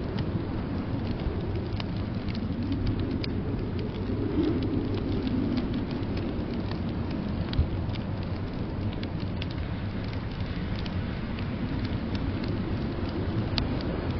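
Wood fire crackling in a fireplace, with many small scattered pops over a steady low rush of blizzard wind; one louder pop about seven and a half seconds in.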